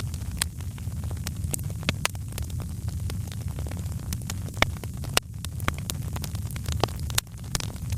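Wood fire crackling in a fireplace: irregular sharp pops and snaps over a steady low rumble, with a couple of louder pops about halfway through.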